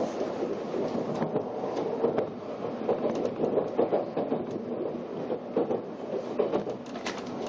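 Cabin sound of an N700 series Shinkansen running on the Sanyo Shinkansen, heard from a window seat inside the passenger car: a steady running rumble with irregular clacks from the track.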